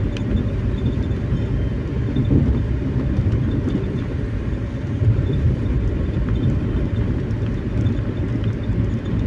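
Steady low rumble of a vehicle travelling, heard from inside the cabin.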